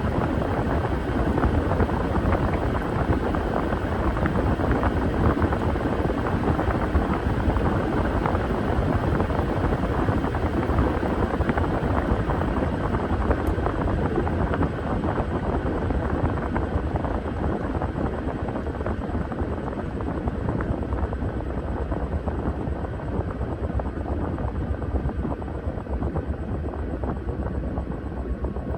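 Washing machine running with a steady, dense mechanical rumble, easing slightly in level over the second half.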